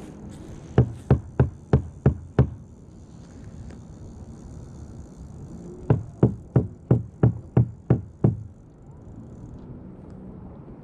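Two runs of hollow knocks thumped on a kayak hull to draw fish in: six knocks about three a second early, then eight more a few seconds later.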